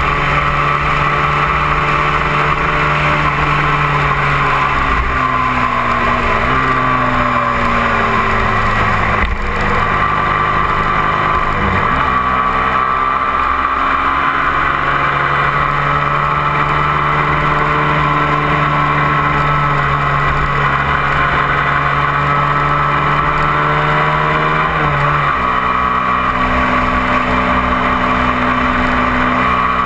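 A 250 cc twin-cylinder sport motorcycle engine running at cruising revs on the move, with steady wind rush over it. Its pitch shifts several times, a couple of drops and rises between about 6 and 12 seconds in and a step near 25 seconds, as the rider changes gear and throttle.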